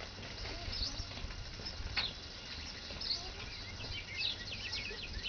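Birds chirping, with a quick run of short chirps about four seconds in, over a low rumble of wind on the microphone. One sharp click about two seconds in.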